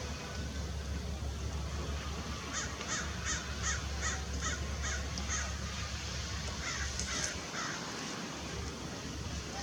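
A bird calling a run of about eight evenly spaced harsh notes, a little under three a second, then a few more a second or two later, over a steady low rumble.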